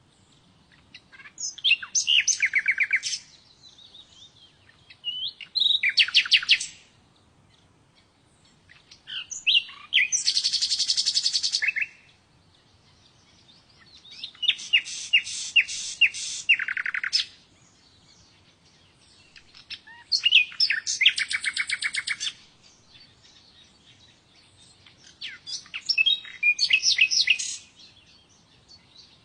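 A small songbird singing: six bouts of rapid, high trills and chirps, each a second or two long, with short pauses between them.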